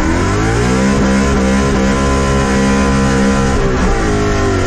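V8 car engine under hard load, rising in pitch at the start and then holding a steady high note, with a brief dip about four seconds in.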